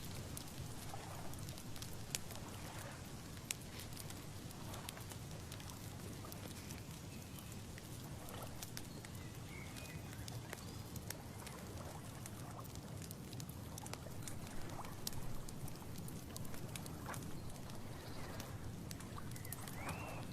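Outdoor ambience: a steady low rumble of wind with many small scattered ticks and crackles, and a few faint short bird calls about halfway through and near the end.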